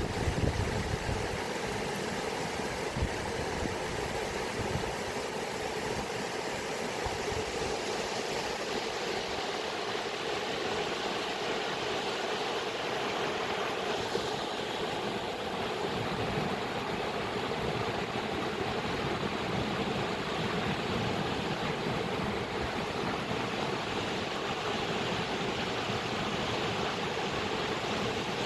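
Flowing water rushing steadily, an even noise with no rhythm or pitch, with a slightly stronger low rumble in the first second.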